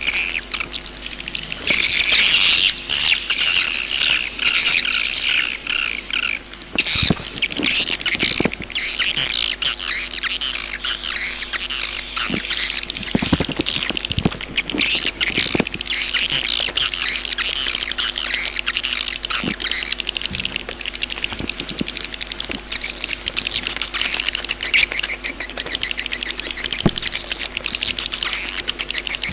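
Swiftlets calling: a dense, unbroken twittering of many high chirps, with scattered sharp clicks. This is a 'jaguar' swiftlet call track, the kind of recording played to lure swiftlets into a nesting house.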